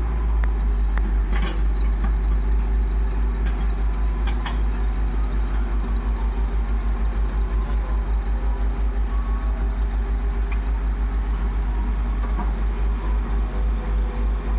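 Heavy diesel engine running steadily at idle close by, a rapid even low throb, with a couple of faint light knocks.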